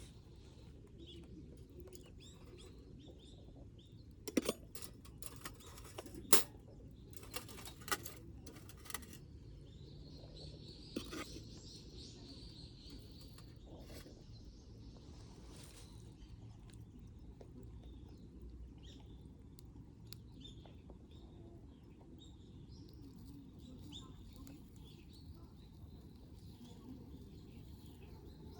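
Faint bird chirps over a low steady rumble, with a handful of sharp clicks and taps between about four and eleven seconds in.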